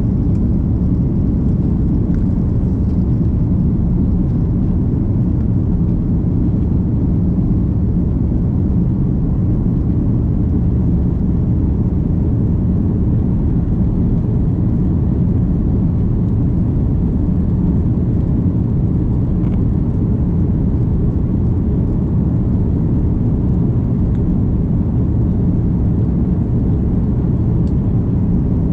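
Steady low rumble of an Airbus A330 heard from inside the passenger cabin: engine and airflow noise at a constant level.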